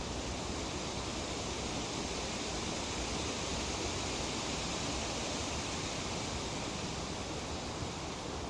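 Breeze rustling tree leaves: a steady, even hiss that swells a little around the middle.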